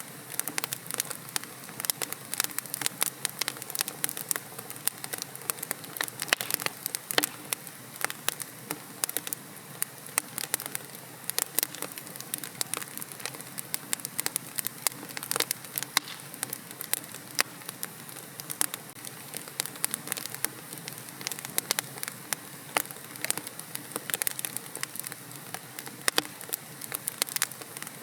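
Wood fire crackling in a fireplace: logs burning with a steady soft hiss and frequent sharp, irregular pops and snaps.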